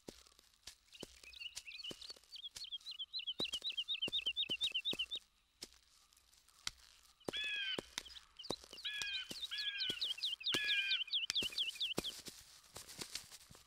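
Outdoor bird calls: quick runs of high repeated chirps, then from about seven seconds in a handful of harsher, drawn-out calls, over scattered sharp clicks and snaps.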